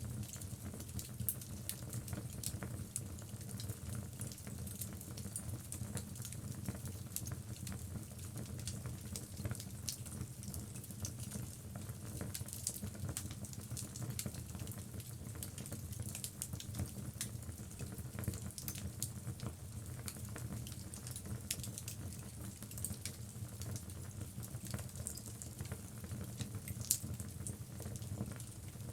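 Wood logs burning in a fireplace: a steady low rumble of flames with frequent small crackles and pops, and one sharper pop near the end.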